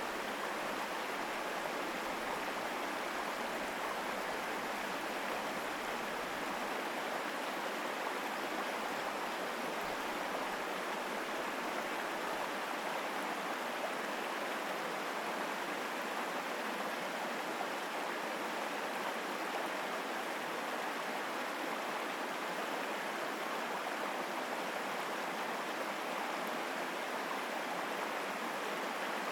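Mountain stream running strongly over rocks: a steady, unbroken rush of water.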